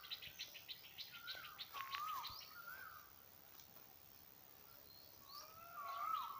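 Birds singing: a quick run of sharp high chips with short whistled notes that bend up and down over the first three seconds, then a louder whistled phrase near the end.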